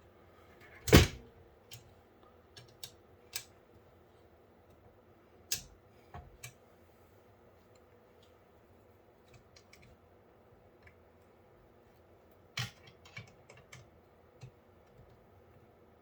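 Scattered clicks and knocks of small metal parts being handled and fitted into a PC case, as thumb screws and a bracket go in. A loud knock comes about a second in and another about twelve seconds in, with lighter clicks between.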